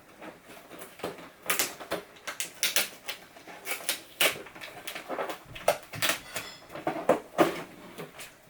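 Irregular clicks, taps and rustles of an RC car's box packaging being handled while the car, zip-tied in place, is worked loose.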